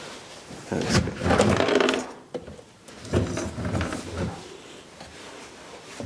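Clattering and knocking of objects being moved and handled, in two busy spells: a louder one about a second in and another around three seconds in.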